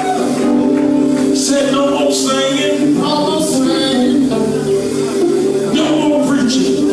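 Live gospel band music: sustained chords held under the voices, with light percussion strokes keeping time.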